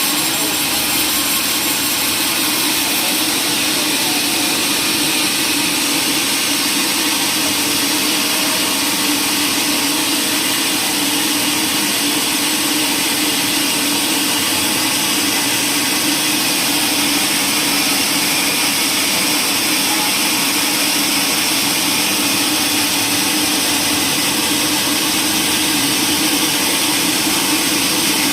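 Woodworking machine running steadily: a constant loud hiss with an even hum underneath, no cuts or knocks.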